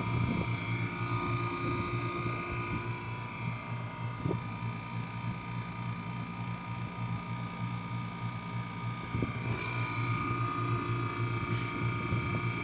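Carlyle 06D818 semi-hermetic reciprocating compressor running steadily, a constant hum with several fixed tones and a few faint knocks, in good running condition.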